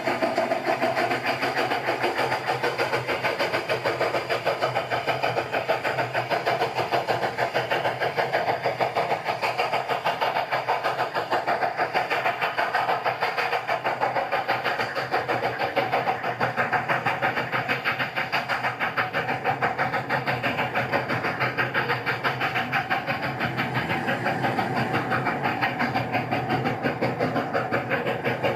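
A motor-driven machine running steadily with a rapid, even pulse.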